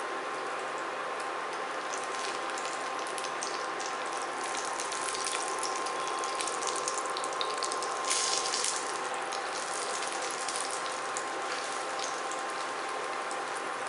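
Breaded fish cutlets shallow-frying in oil in a nonstick pan: a steady sizzle full of fine crackles, busier in the middle, with a brief louder burst of sizzle about eight seconds in as the spatula turns a cutlet. A faint steady whine sits underneath.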